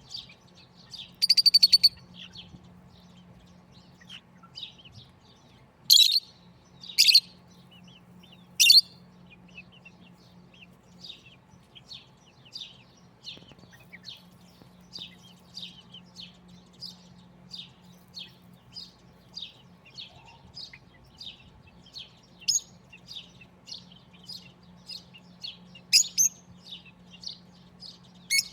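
Rosella parrots chirping and whistling, with short high calls repeating at about two a second. A few louder, sharper calls stand out: a rapid trill about a second in, three calls between six and nine seconds, and two more late on. A faint steady low hum runs underneath.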